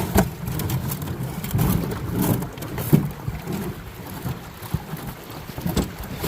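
Fiberglass canoe being paddled through river rapids: rushing water and wind on the microphone, with several sharp knocks about two and three seconds in and again near the end.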